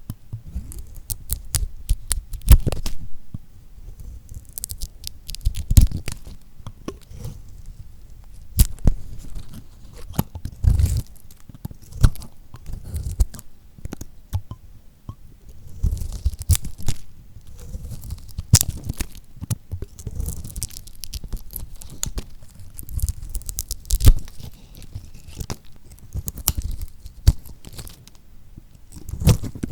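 Knife cutting through lacquered soap: crisp crunching and crackling of the hardened lacquer coating, an irregular run of sharp cracks coming in clusters.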